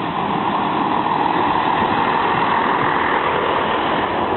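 Class 165 diesel multiple unit running in at the level crossing, its diesel engines and wheels on the rails growing louder over about the first second, then holding steady.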